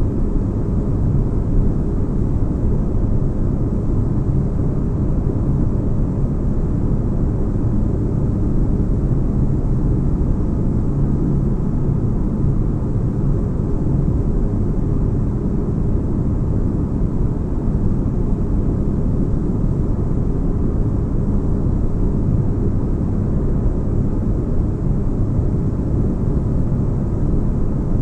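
Sound-designed spaceship interior ambience: a steady deep bass rumble with a faint low hum, like engines droning inside a ship, unchanging throughout.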